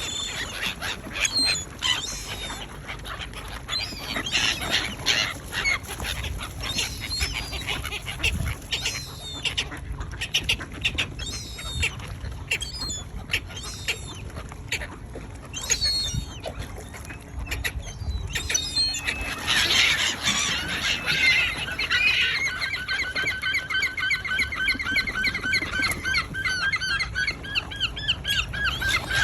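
A flock of waterbirds, gulls, ducks and swans, calling over bread thrown onto the water, with many short overlapping calls; from about twenty seconds in, a fast run of repeated calls comes in and grows louder.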